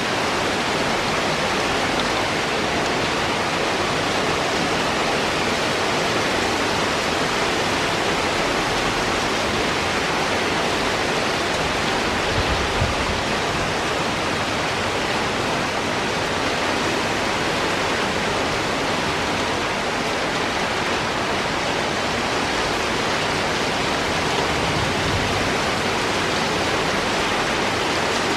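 Heavy rain from a rainstorm falling steadily, an even dense hiss with no let-up.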